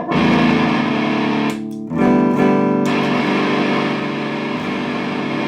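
Electric guitar played through a distortion pedal. A distorted chord is struck and left to ring, then another is struck about two seconds in and sustained.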